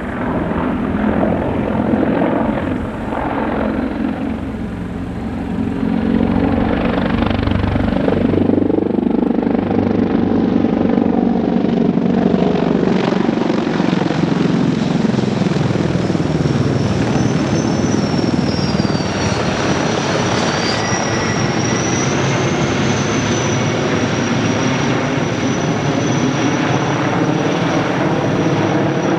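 Helicopter flying past: rotor and engine noise whose pitch slides down as it passes, then a steady high whine that wavers in pitch.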